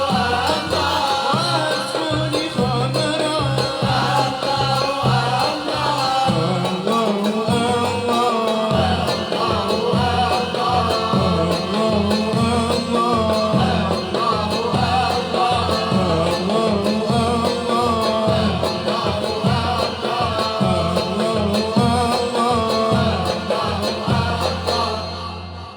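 A ma'luf ensemble performing: singing with instrumental accompaniment, dying away near the end.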